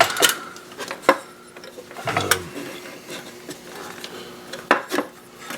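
Hands handling parts in a car's engine bay: a few sharp clicks and light knocks of plastic and metal, two close together near the end, over a faint steady hum.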